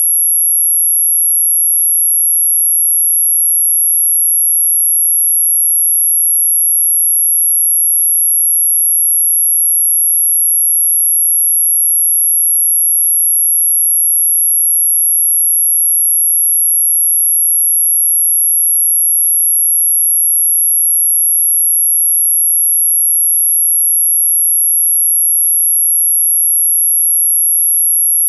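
A single unbroken, very high-pitched pure tone, played as a mosquito-repellent sound, holding the same pitch and loudness throughout.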